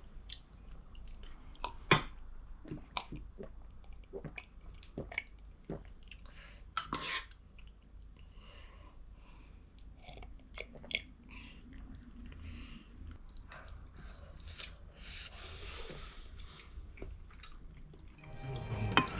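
Chewing and eating sounds at a meal, with scattered small clicks and taps of chopsticks and tableware.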